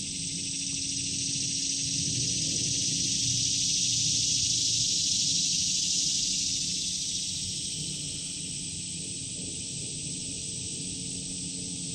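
Chorus of insects buzzing with a high, shrill hiss that swells over a few seconds and then eases off.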